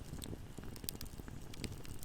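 Fireplace fire crackling: irregular sharp pops and snaps over a low, steady rumble of burning.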